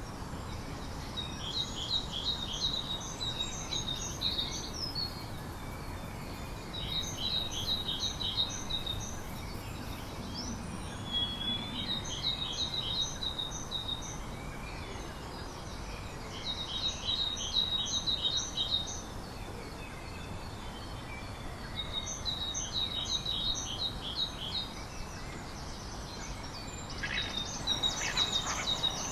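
A songbird repeating a short, rapid trilled song phrase about every four to five seconds, over a steady background hiss of outdoor noise.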